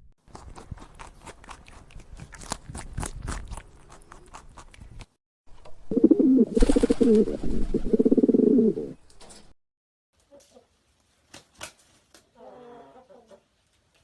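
Pigeons: several seconds of clicking and scuffling, then a loud, low, pulsing cooing call lasting about four seconds, with faint short sounds near the end.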